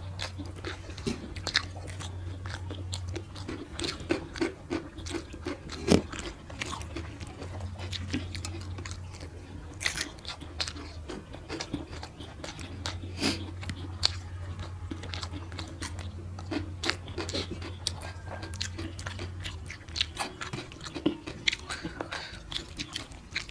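Close-up eating sounds of two people eating rice with their hands: chewing, wet mouth clicks and crisp bites into raw cucumber and green chilli, as a run of sharp irregular clicks and crunches. A low steady hum lies underneath.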